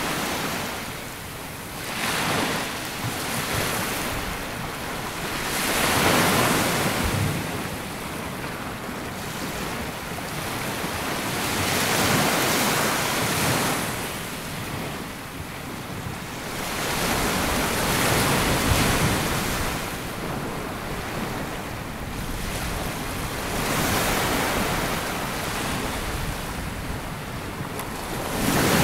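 Small waves breaking and washing up a sandy beach, the surf swelling and falling back every few seconds, with some wind on the microphone.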